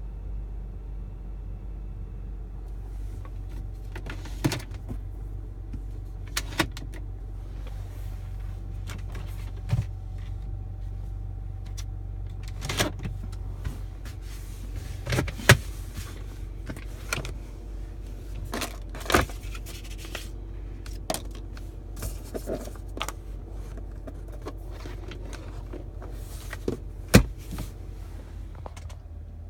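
BMW 328i's 3.0-litre straight-six idling steadily, with about fifteen sharp clicks and knocks at irregular intervals over the top.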